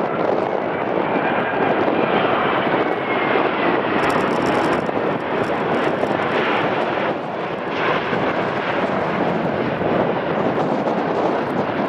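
Jet airliner engines on landing approach: a steady rush of jet noise with a faint high whine that falls slightly in pitch during the first few seconds.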